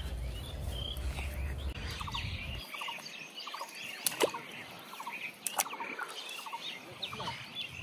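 Birds chirping and calling over and over, with a few sharp clicks. A low rumble stops about two and a half seconds in.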